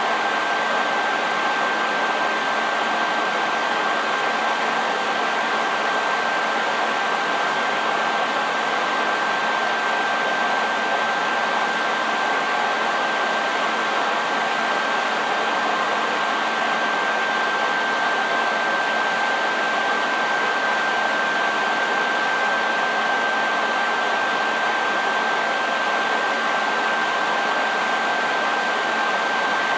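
Hair dryer running steadily: an even rush of blown air with a constant high whine from the fan motor.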